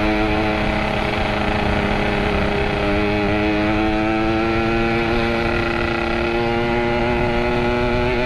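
Yamaha RX-King's two-stroke single-cylinder engine, fitted with a Boban C33 aftermarket exhaust, running steadily under way at a near-constant engine speed, its pitch creeping up slightly midway, with wind and road noise underneath.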